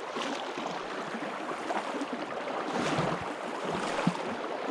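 Steady rush of a strong river current, with a few soft splashes from wading in hip waders in the second half.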